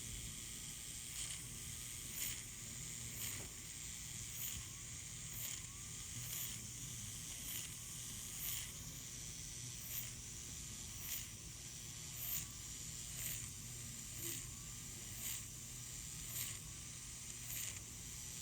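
Steady hiss and low hum of surgical equipment, with a short high-pitched whirr about once a second, typical of a motorized FUE punch spinning up for each graft extracted.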